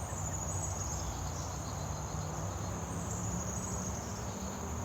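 Insects, crickets or katydids, trilling in a steady high-pitched chorus, with a low steady rumble underneath.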